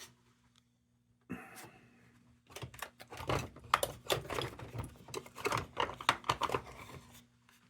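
Hand work on the tin parts of an old kerosene lantern: a brief squeak about a second in, then a long run of rapid clicks, taps and scrapes of metal being worked loose.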